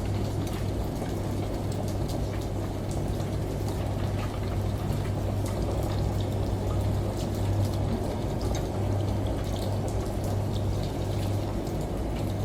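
Layered home ambience: steady rushing water from a running shower or rain, over a steady low washing-machine hum, with scattered light drips and ticks.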